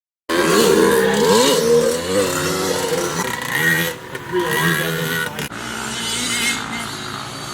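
Vintage motocross bike engines revving up and down on the track, more than one engine rising and falling in pitch at once. The sound starts abruptly about a third of a second in and drops somewhat in loudness after a cut near the end.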